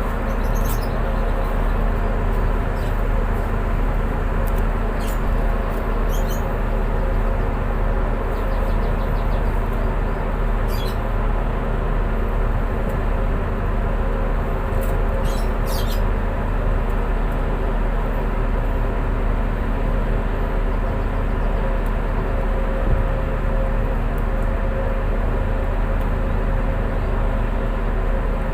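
Tugboat engines running steadily: a constant low drone with a steady hum. A few brief, high chirps or squeaks sound in the first half.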